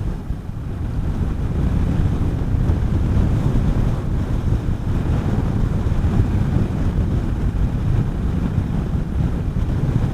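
Wind rushing over the microphone of a moving motorcycle, with a Honda CB400SS's single-cylinder engine running underneath; it swells a little over the first couple of seconds and then holds steady.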